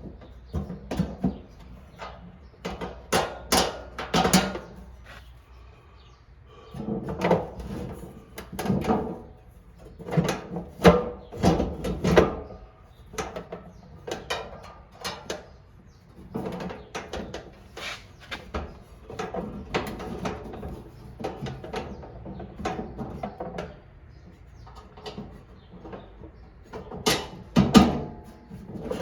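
Irregular metal clanks, knocks and rattles from the tractor's grille and brackets being handled and fitted back on, in bunches with short gaps.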